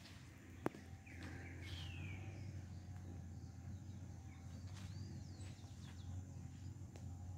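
Birds chirping a few times, one call falling in pitch, over a steady low rumble, with a single sharp click just under a second in.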